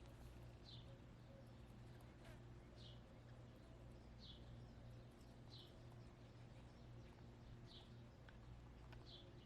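A wild bird calling faintly in the background: a short, high chirp falling in pitch, repeated about six times at roughly one-to-one-and-a-half-second spacing, over a faint low steady hum.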